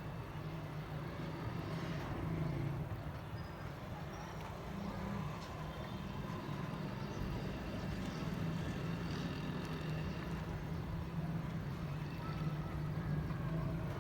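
Steady low rumble of background noise, like distant traffic, with faint short bird chirps scattered over it.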